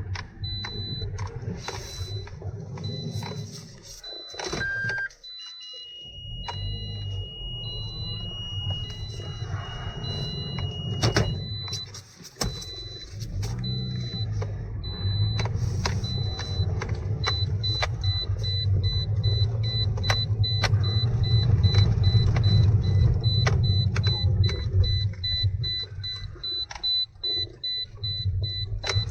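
Toyota Verso's 1.8 petrol engine running, growing louder partway through. Over it, a high electronic beep repeats about twice a second, speeding up in the second half. A steady high tone sounds for several seconds early on.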